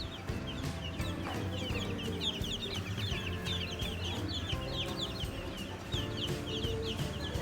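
Many birds chirping in quick, overlapping short calls, over a low steady hum.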